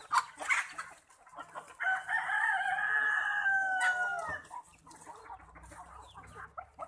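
A rooster crowing once, one long call of about two and a half seconds that drops in pitch at the end, among hens clucking.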